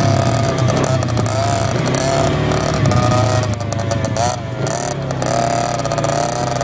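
Dirt bike engine running under way, its pitch rising and falling a little as the throttle changes.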